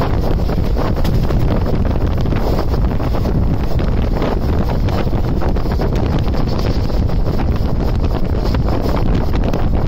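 Steady rush of wind on the microphone over the continuous rumble of a fast-moving passenger train.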